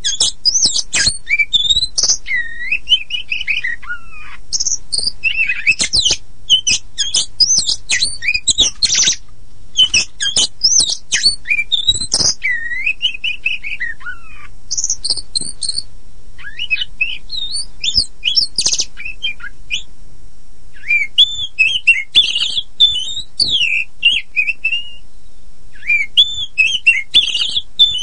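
Oriental magpie-robin (kacer poci) singing a varied song of rich whistles, rapid trills and sharp clicking notes in quick phrases, with a couple of short pauses partway through.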